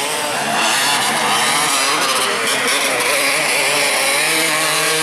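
Enduro dirt bike engines revving, several at once, their pitch rising and falling unevenly.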